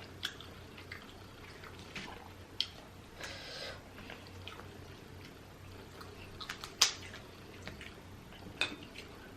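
Eating a seafood boil by hand: scattered small wet clicks and cracks of boiled seafood shells being broken and peeled, with a brief rustle a little past three seconds in and one sharper crack near seven seconds.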